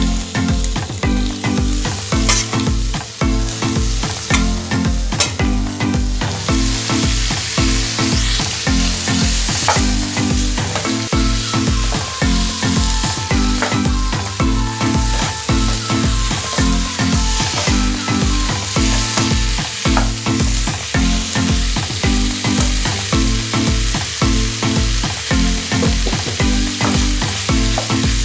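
Chicken gizzards frying in a nonstick pan of onion-tomato masala, sizzling while a spatula stirs them. The sizzle grows louder about six seconds in. Background music with a steady low beat runs underneath.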